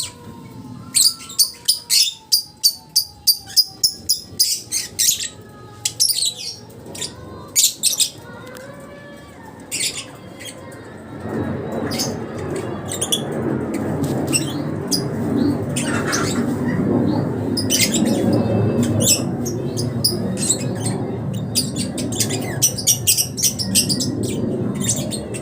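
Lovebird chattering in its long 'ngekek' song: a fast, loud series of sharp high chirps through the first eight seconds, with more scattered chirps after. From about eleven seconds a steady rushing noise sets in underneath.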